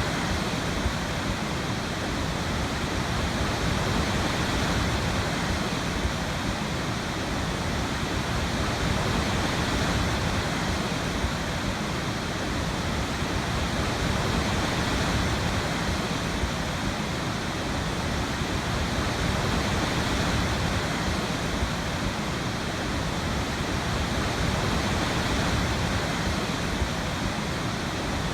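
Waterfall: a steady rush of falling water, full and even, swelling and easing slightly every few seconds.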